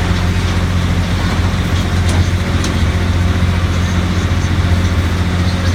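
Tourist road train's engine running at a steady low drone, with road noise.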